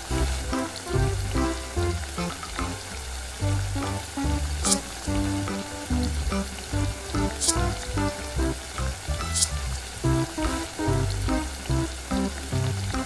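Crab, egg and peppers frying and sizzling in a miniature metal wok while being stirred and tossed. Three brief high scrapes come at about five, seven and a half, and nine and a half seconds in.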